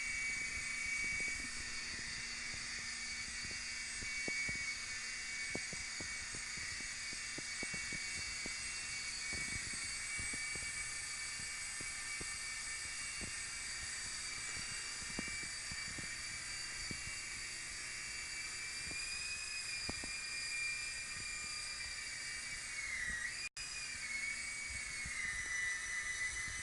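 Blade mCX micro coaxial RC helicopter flying: a steady high-pitched whine from its small electric motors and rotors. The pitch dips and rises a few times near the end as the throttle changes, and the sound cuts out for an instant.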